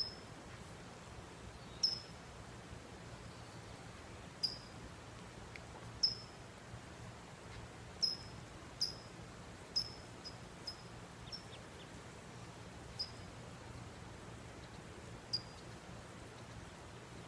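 A small bird chirping: about a dozen short, high chirps, each sliding slightly down in pitch, spaced irregularly a second or two apart, over a faint steady low background hum.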